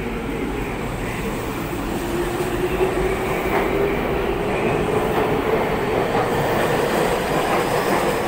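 Tokyu electric commuter train pulling out past the platform screen doors, wheel and rail noise growing louder. From about two seconds in, a motor whine rises steadily in pitch as the train speeds up.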